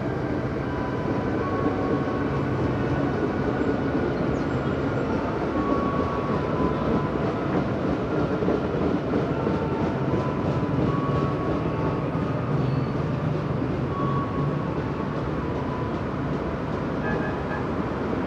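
Electric commuter train running at a station: a steady rumble of wheels and traction motors, with short high tones coming and going.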